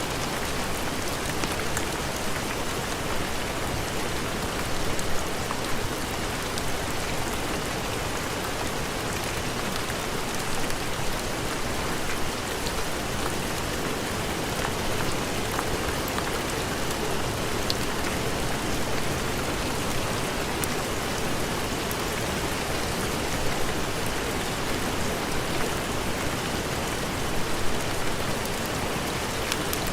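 Heavy rain falling steadily, an even hiss with scattered small ticks and pops.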